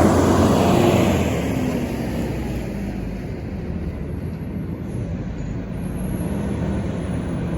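Garbage truck driving past, loudest at the start and fading over the first two seconds, then a steady low engine rumble.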